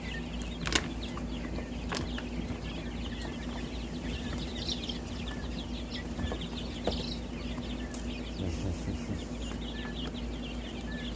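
A brooder full of young quail and guinea keets peeping in many short, high chirps, with wings fluttering as the birds fly about. There are two sharp clicks, about one and two seconds in, over a steady low hum.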